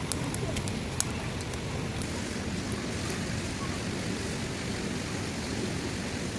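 Steady rain falling, with a few sharp drop taps in the first second.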